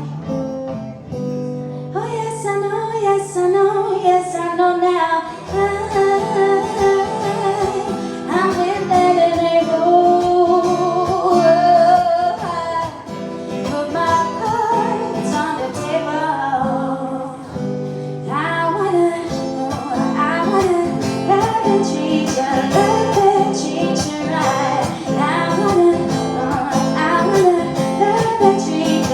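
A woman singing to acoustic guitar, a live song with strummed chords.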